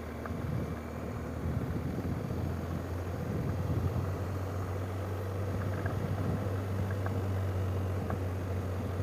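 A vehicle driving along, with engine and road noise in a steady low drone.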